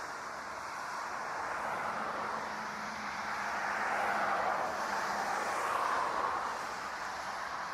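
Jet airliner engine noise: a steady rushing roar that swells a little around the middle and eases off again, with a faint steady hum beneath it.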